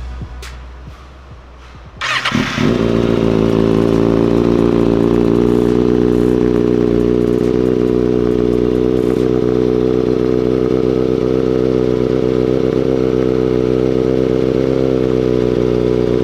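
Kawasaki Ninja ZX6-R's inline-four engine, fitted with an Austin Racing V3 exhaust, cranked and catching about two seconds in, then idling steadily.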